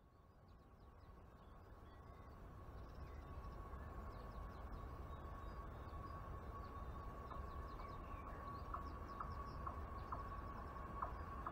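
A distant train approaching: a faint rumble and hiss building slowly, with a steady high ringing tone and a few light clicks in the second half. Birds chirp faintly.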